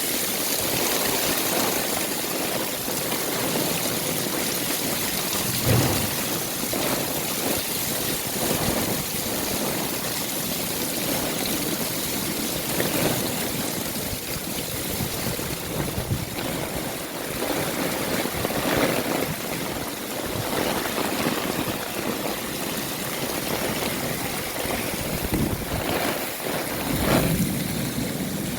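Heavy rain pouring steadily: a dense, even hiss of falling and running water, with a few brief thumps.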